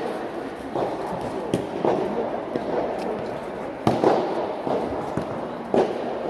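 Soft tennis rally: several sharp pops, about a second or two apart, of rackets striking the soft rubber ball, over a murmur of voices around the court.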